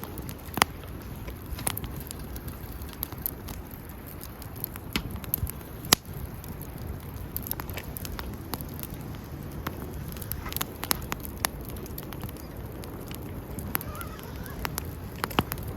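Wood fire crackling: irregular sharp pops and snaps over a low steady rush of burning, with one loud snap about six seconds in.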